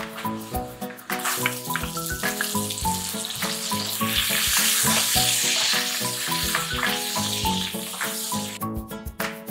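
Garlic and onions sizzling as they are sautéed in adobo sauce in a frying pan, the sizzle starting about a second in, loudest in the middle and dying away near the end, over background music.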